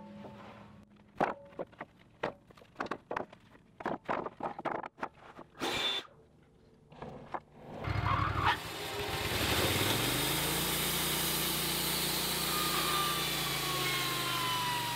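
A string of sharp knocks, then the Wood-Mizer LT15 sawmill's Kohler engine starts about eight seconds in, speeds up and runs steadily, with a whine falling in pitch near the end.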